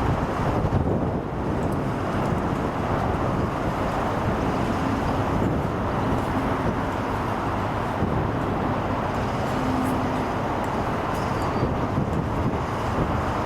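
A steady, low rumble of a passing vehicle.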